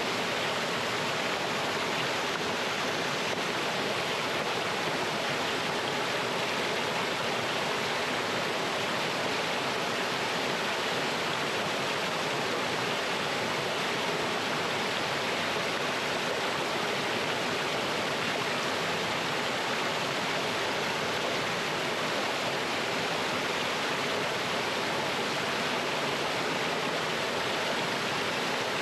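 Mountain stream water rushing over rocks and down a small waterfall, a steady, even splashing rush with no change.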